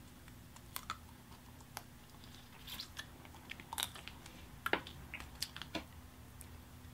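Biting and chewing boiled crawfish claws, with soft, irregular crunches and cracks of the thin shell.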